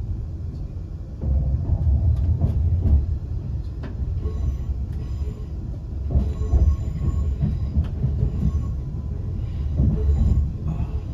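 Class 350 Desiro electric multiple unit under way, heard from inside the passenger saloon: a low rumble of wheels on rail that grows louder a little over a second in. Faint thin high-pitched tones come and go over it from about four seconds in.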